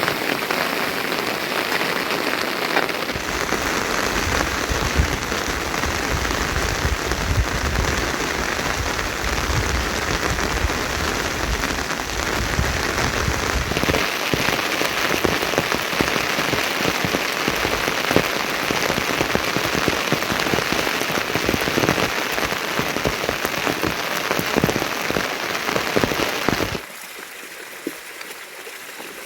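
Heavy rain falling, a dense, steady patter of many drops. Near the end it cuts off suddenly to a much quieter steady hiss.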